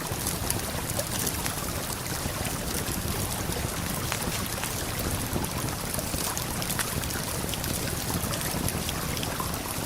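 Steady rushing of a waterfall and river current, with a campfire's small crackles and pops scattered through it.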